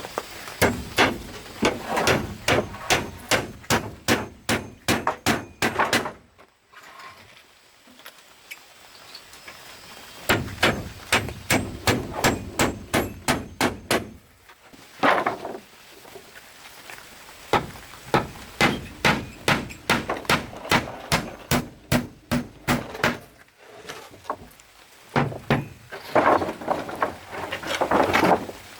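Repeated blows of a tool striking wood, about two or three a second, in several runs broken by short pauses.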